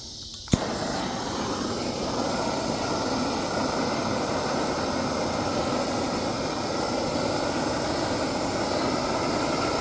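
A blowtorch flame lit with a sharp click about half a second in, then burning with a steady rushing hiss as it scorches a wooden board dark.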